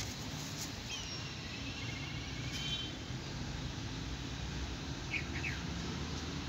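Outdoor ambience of a steady low rumble, with bird chirps and a short trill about a second in and two quick chirps near the end.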